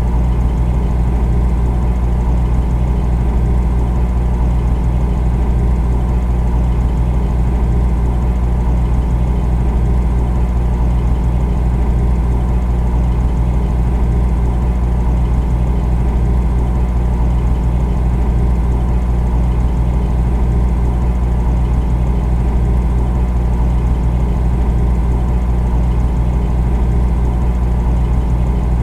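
Refrigerator running with a steady, unchanging low hum: the deep drone of its compressor with a few steady tones above it.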